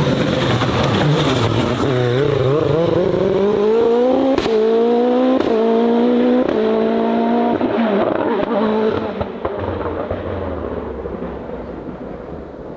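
Race car engine accelerating hard, the revs climbing and dropping back at quick upshifts about a second apart, then fading as the car pulls away.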